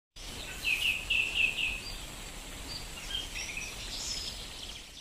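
Birdsong over a faint steady hiss, like forest ambience: a quick run of five chirps about half a second in, then scattered higher chirps.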